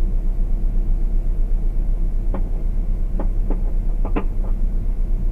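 Steady, deep rumble of a car's engine and road noise heard from inside the vehicle, with a handful of short, irregular clicks or knocks about halfway through.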